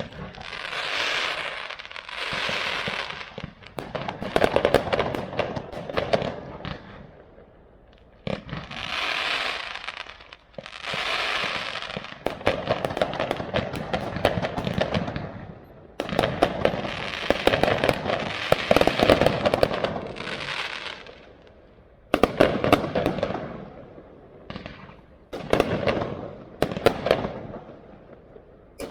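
Aerial fireworks going off continuously: repeated sharp bangs of bursting shells, with dense crackling swells a second or two long that come and go in waves.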